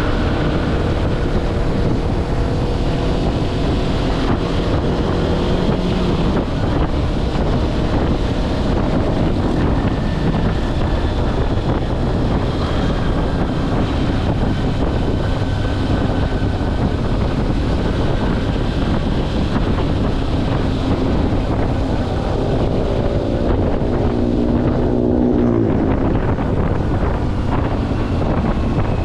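Kawasaki Versys-X 250's parallel-twin engine running on the move, heard under heavy wind buffeting on the microphone. The engine pitch rises briefly about 24 seconds in, then drops away.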